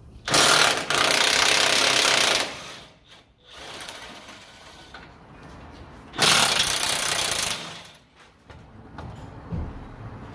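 A power wrench run in two bursts, one of about two seconds and a shorter one of about a second and a half, undoing bolts under the vehicle.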